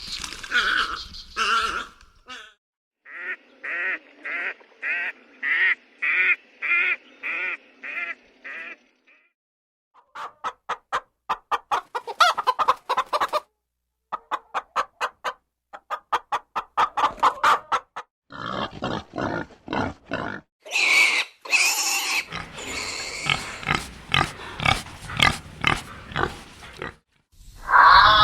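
A string of short animal calls in separate segments. First comes a steady series of pitched calls, about two a second. Then there are fast trains of short pulses, and near the end noisier, denser calls.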